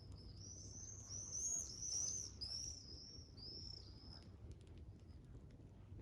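A songbird singing a quick run of high, arching notes for about four seconds, loudest in the middle, then stopping.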